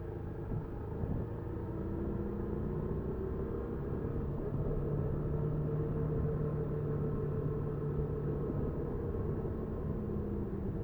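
Honda Super Cub 50's small single-cylinder engine running steadily while riding, its note holding several steady tones over a low rumble of road and wind noise.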